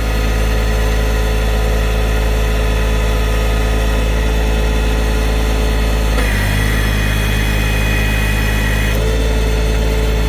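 John Deere tractor engine running steadily. A little past the middle a higher whine joins it for about three seconds, then drops away.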